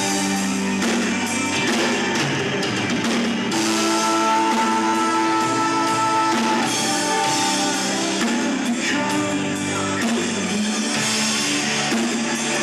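Rock band playing live: guitar and drum kit in a continuous song with long held notes.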